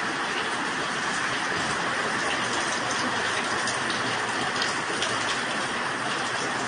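Heavy tropical-storm rain falling steadily: a dense, even hiss with scattered sharper drop splashes.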